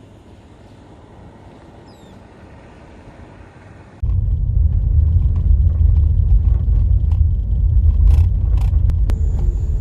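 Faint outdoor background, then about four seconds in a sudden, loud, steady low rumble of a car driving on a dirt road, heard from inside the car.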